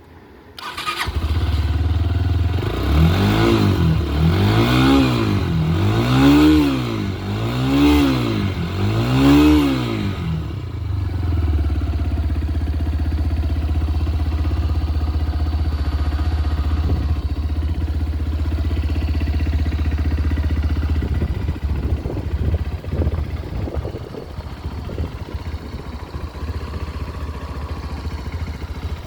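Motorcycle engine starting, then blipped five times in quick succession with the revs rising and falling, before settling to a steady idle that becomes less even near the end.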